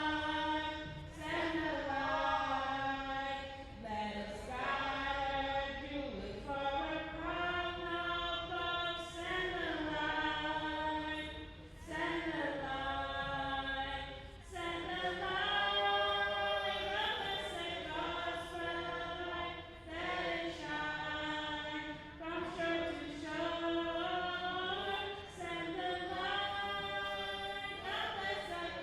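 A choir singing a slow hymn a cappella, in phrases of long held notes.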